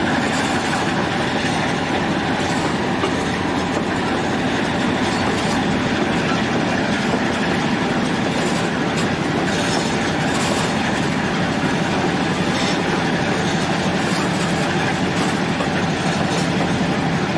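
Diesel-hauled passenger train running along the track, heard from an open car platform: a steady rumble of wheels on rails and locomotive engines, with occasional faint clicks from the rail joints.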